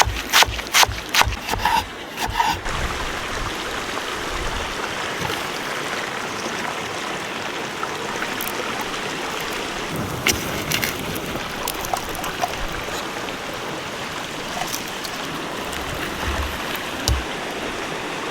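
A quick series of sharp knocks in the first couple of seconds, then a steady rushing sound of flowing water, broken by a few scattered ticks.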